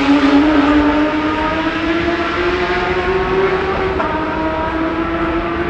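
Racing car engine held at high revs, its note rising slowly and steadily.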